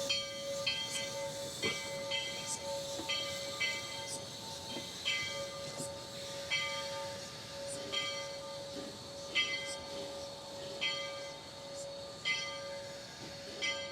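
No. 40 steam locomotive with its bell ringing over and over, roughly once a second, above a steady tone and light steam hiss.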